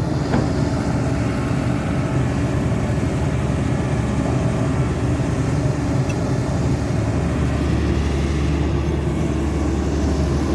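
Caterpillar 320D2 hydraulic excavator's diesel engine running steadily under load while digging, its low drone growing stronger about eight seconds in.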